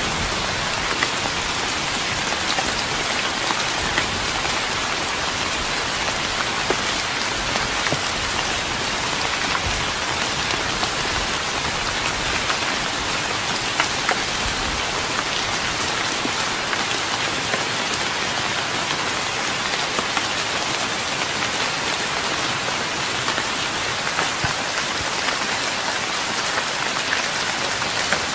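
Steady rain falling on a wooden deck, the drops pattering evenly with scattered louder individual drips.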